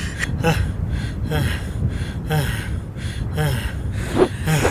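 A man panting hard in short voiced gasps, about two a second.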